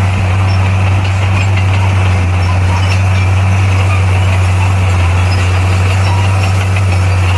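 Heavy construction machine's diesel engine running steadily, a loud unchanging low drone.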